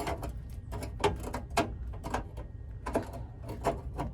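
Irregular sharp clicks and knocks, roughly two or three a second, from work on the car's sheet-metal floor, over a steady low hum.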